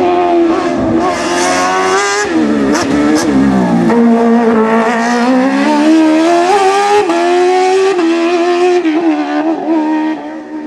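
Hillclimb racing car engine at high revs. About two seconds in the pitch drops sharply with a few sharp cracks, then climbs again in short steps, before the sound falls away near the end.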